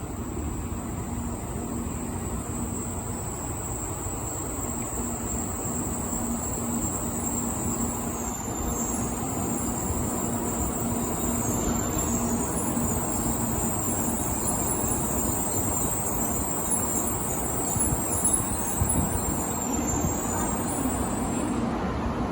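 Out-of-service Shinkansen train at a station platform: a steady rumble with a low hum and a thin high whine that wavers in pitch, growing slowly louder.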